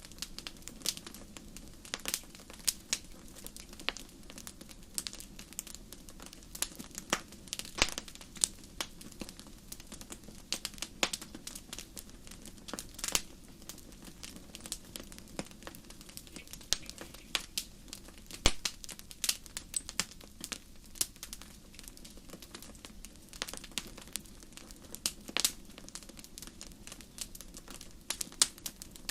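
Wood campfire crackling: irregular pops and snaps of burning wood, a few of them much louder, over a soft steady hiss of the fire.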